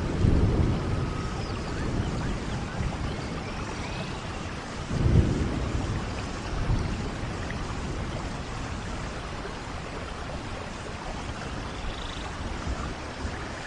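Steady rain falling in a forest, with deep rumbles of thunder rolling in just after the start and again about five seconds in.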